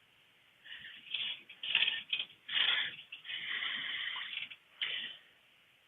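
Handling noises: a run of short rubbing and scraping sounds, with a longer steady rub around the middle, as the engine-oil dipstick is drawn back out of its tube to read the level.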